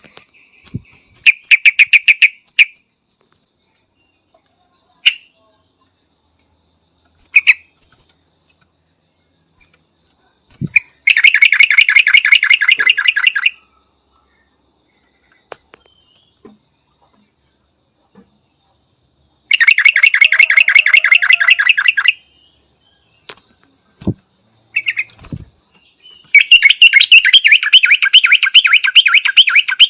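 Yellow-vented bulbul calling: four bursts of fast, evenly repeated chattering notes, each lasting two to three seconds, with a few single short notes in between.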